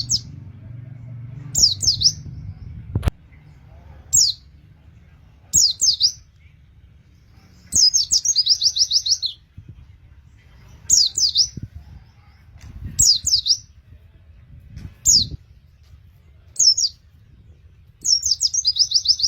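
White-eye (pleci) in full song: short, high chirping phrases every second or two, several breaking into fast rolling trills. This is the kind of song used as a lure recording to get other white-eyes singing.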